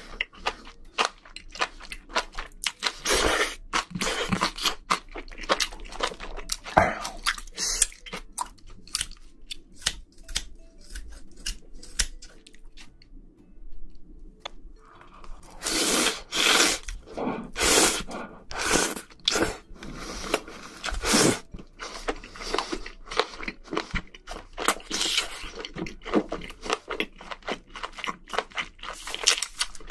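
Close-miked chewing of spicy seafood, small octopus and glass noodles: wet, crunchy bites with many sharp crackling clicks. It thins out a little before halfway, then comes back louder and denser.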